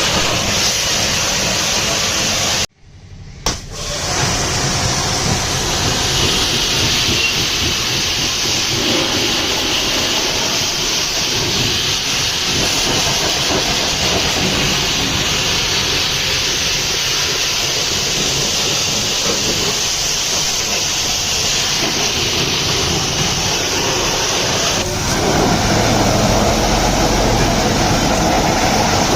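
Strong water jet spraying onto a truck, a steady loud hiss. It cuts out briefly about three seconds in, and near the end it turns rougher and deeper.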